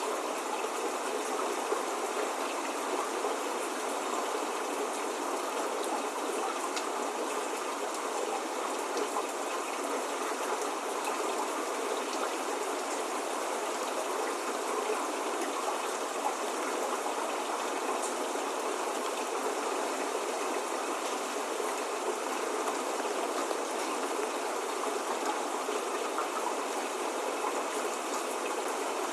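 Steady rain falling, an even hiss of water with scattered faint drop ticks and no thunder.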